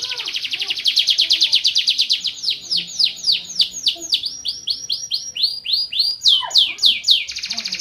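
Domestic canary singing: a fast rolling trill, then a run of slower downward-sweeping notes, then a fast trill again near the end.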